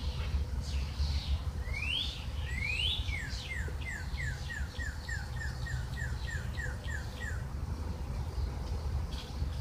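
A songbird singing: two rising whistles, then a run of about fourteen quick falling notes, three or four a second, that stops a few seconds before the end. A steady low rumble lies underneath.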